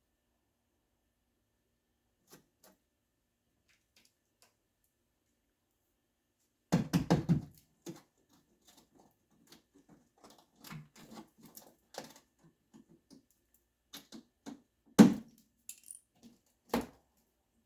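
Scattered clicks and clatter of small hard objects being handled, with a loud cluster of rattling knocks about seven seconds in and sharp single knocks near the end.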